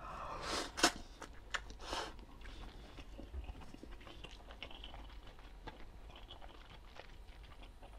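A person chewing a mouthful of instant cup noodles, with a few louder mouth noises in the first two seconds and faint clicks after.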